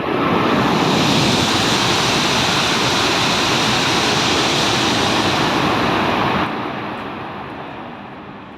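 Tohoku Shinkansen train passing through a station at high speed without stopping: a loud rushing noise that sets in suddenly, holds steady for about six seconds, then falls away and fades out as the train leaves.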